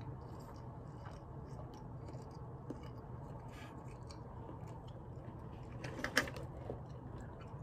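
Faint chewing of a soft mouthful of pancake-battered sausage, with small wet mouth clicks. A brief louder sound comes about six seconds in.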